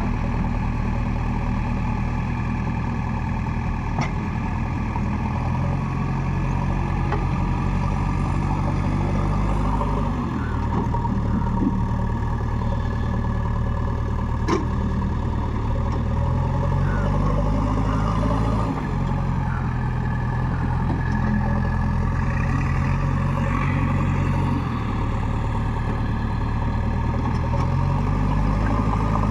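Heavy diesel machine engine running continuously, its speed stepping up and dropping back several times as it works under varying throttle.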